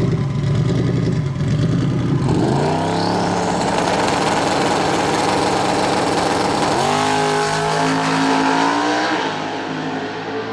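Drag racing cars accelerating hard down the strip at full throttle. The engine note climbs steeply about two seconds in and holds, rises again about seven seconds in, then eases off about nine seconds in.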